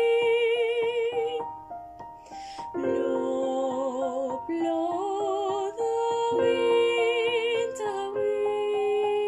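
Vocal ensemble singing held notes in harmony with vibrato, over piano accompaniment. About two seconds in the voices break briefly on a hissing consonant before the next phrase.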